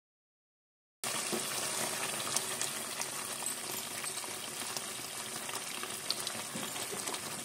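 Chicken korma sizzling as it is fried over high heat in its pot, with light scattered clicks of stirring; it is at the bhuna stage, being cooked down until the oil rises to the top. The sizzling starts suddenly about a second in, after dead silence.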